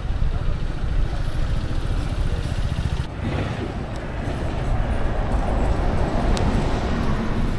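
Wind buffeting the microphone during a bike ride through city streets. Road noise swells from about three seconds in, with a single sharp click near the end.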